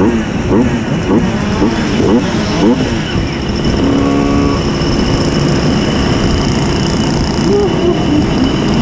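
Simson S51 moped's tuned 90 cc reed-valve two-stroke engine revving. For about three seconds its pitch climbs again and again in quick rising sweeps, then it runs more steadily.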